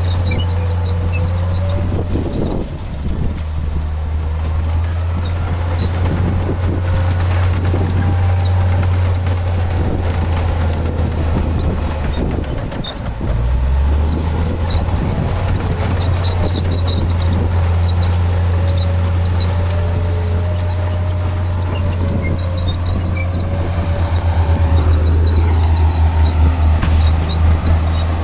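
Bulldozer's diesel engine running steadily with a low drone and a wavering whine above it. It dips briefly about halfway through and pulses rhythmically near the end.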